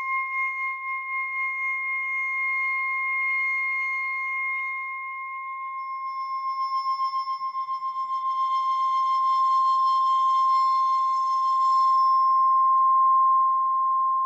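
A steady high-pitched ringing tone that wavers in loudness, with fainter higher tones joining around the middle. It is the film's ear-ringing effect for a fighter stunned in a fiery blast.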